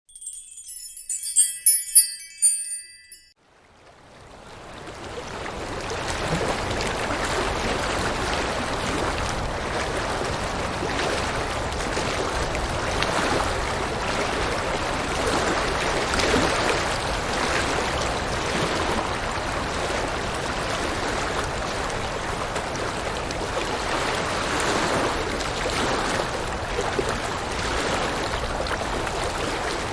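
A short high tinkling chime jingle for the first three seconds, then river water running steadily, fading in over a few seconds.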